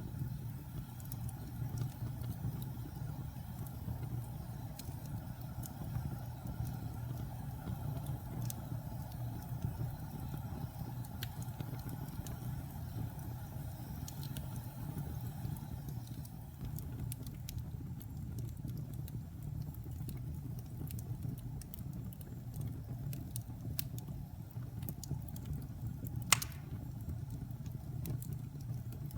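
Wood fire burning in a fireplace: a steady low rumble of flames with scattered crackles and one sharper pop near the end.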